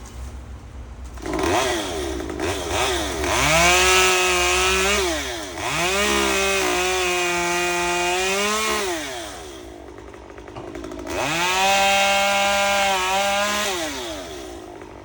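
Two-stroke chainsaw revved to full throttle in three bursts, its pitch climbing and holding high, then falling back to idle between bursts, as used for cutting tree branches.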